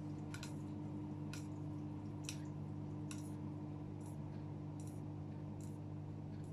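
2007 AEG Öko-Lavamat 76910 washing machine running its wash cycle: a steady hum with short wet splashes or clicks of water in the drum about once a second.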